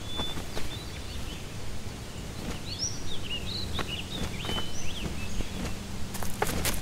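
Small songbirds chirping and whistling in woodland, a run of short rising and falling calls through the middle, over a steady low outdoor background hum. A few sharp rustles or clicks near the end.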